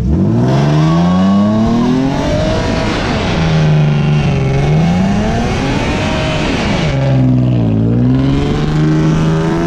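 Car engine revved hard at a car meet, its pitch climbing, dropping back and climbing again several times, over a loud hiss that stops about seven seconds in.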